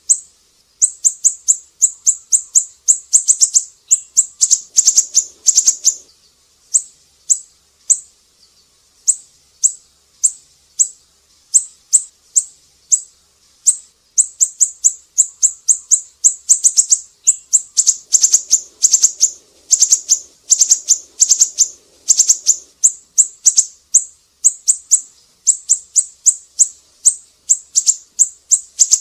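Siri-siri bird singing: fast runs of sharp, high chips, each run lasting a few seconds with short pauses between.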